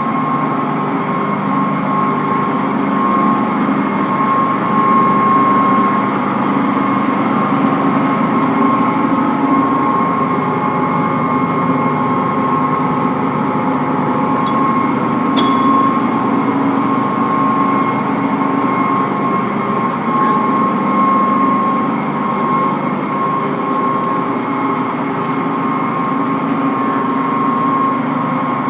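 Kramatorsk-built lathe running steadily: a constant machine hum with a high, even whine, and one faint tick about halfway through.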